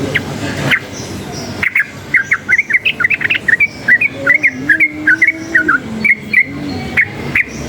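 Yellow-vented bulbul singing: a few quick notes, then from about two seconds in a dense run of rapid chirping notes, over a steady low background hum.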